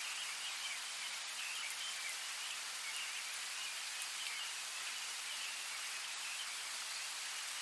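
Steady rain falling, an even hiss with no breaks, with faint chirping calls in the background.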